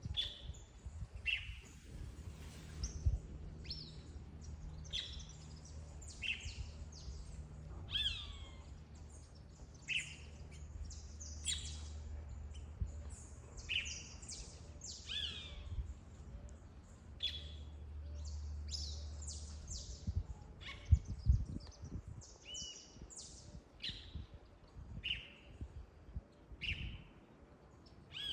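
Wild birds calling over and over: short chirps and whistles, many sliding down in pitch, about one or two a second. Under them a low steady hum stops about two-thirds of the way through, and a few low thumps follow.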